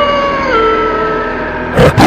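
A long animal howl, the sound effect of a kitsune (fox spirit), held on one pitch and then dropping a step about half a second in. It is cut off near the end by a sudden, short, loud blast of noise.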